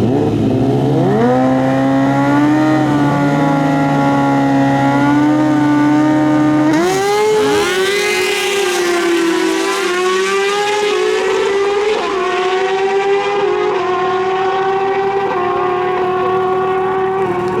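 Stock sport-bike engines at full throttle on a drag pass. Their pitch climbs through each gear and drops at each upshift, about a second in, again near seven seconds, and once more near twelve seconds.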